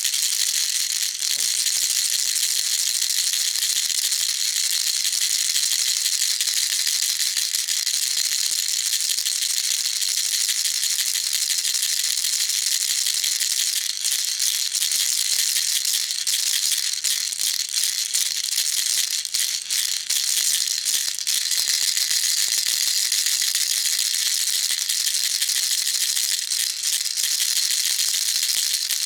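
Baby rattle shaken continuously, its beads rattling in a steady, dense, high-pitched patter without a break.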